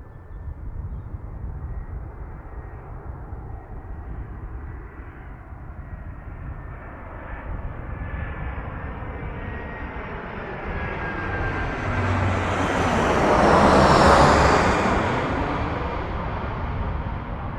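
Landing airliner passing low and close overhead. Its engine sound builds to a peak near the end, then fades, with a faint whine that slowly drops in pitch as it approaches.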